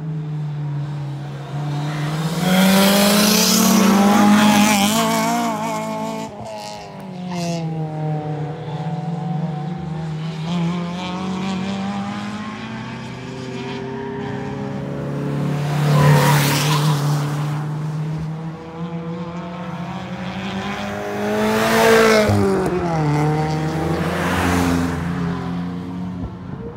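Acura RSX's K24 four-cylinder engine lapping a race track: it revs up and down in pitch through the corners and gears. It swells loudest as the car passes close, about four seconds in, again around sixteen seconds and again around twenty-two seconds.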